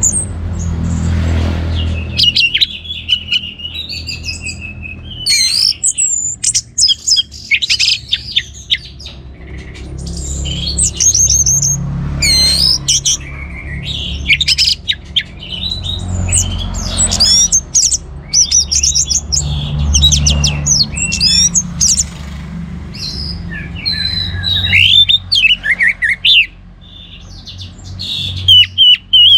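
Orange-headed thrush singing vigorously in full song: a long run of quick, varied whistled phrases and chattering trills, with a steady low hum underneath.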